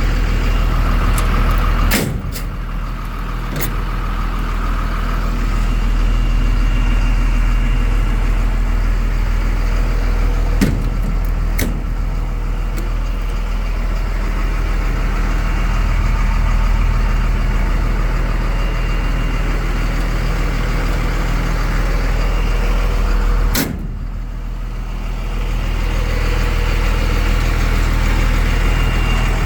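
A 5.9 Cummins straight-six turbodiesel idling steadily. A few sharp knocks cut in, the loudest about two seconds in and about six seconds before the end, each followed by a short dip in the engine's loudness.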